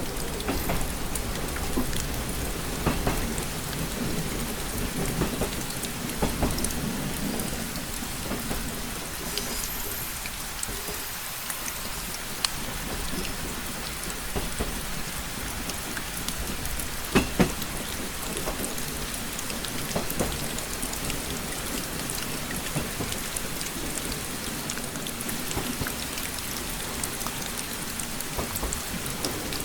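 Steady rain pattering, full of fine individual drop ticks, over a low wavering rumble. A couple of sharper, louder ticks come about seventeen seconds in.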